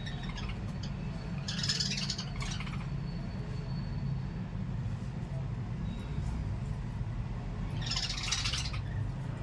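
Two short, harsh squawks from small pet parrots, about a second and a half in and again near the end, over a steady low rumble.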